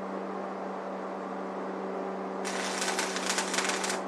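Stick-welding arc with a 7018 rod, struck about two and a half seconds in, crackling for about a second and a half before it stops. A steady hum runs underneath.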